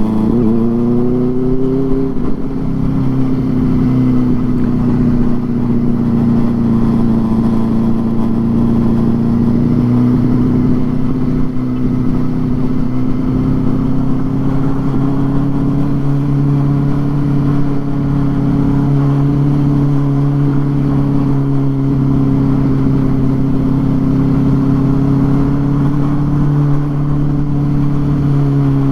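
Benelli 600i inline-four engine with an aftermarket IXIL exhaust running under way. It rises in pitch for the first couple of seconds, then holds a steady cruising note.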